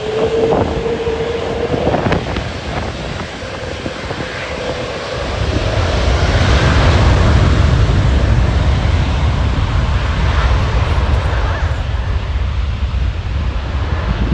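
Airbus A380's four jet engines at takeoff power: a steady whine over a roar at first, then a deep low rumble that swells up about five seconds in and stays loud.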